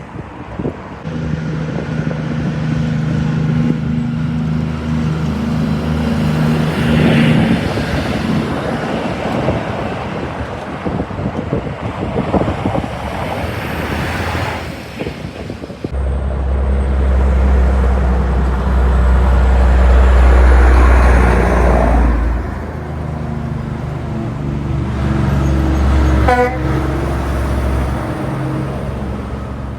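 Heavy trucks and other traffic passing on a highway, one after another: diesel engines running with tyre and road noise. The loudest, deepest pass comes about two-thirds of the way through.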